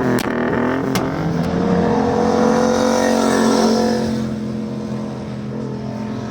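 Yamaha MT-07's parallel-twin engine with an SC-Project exhaust, revs falling with two sharp cracks early on, then holding a steady low note that rises a little and eases off, getting quieter after about four seconds.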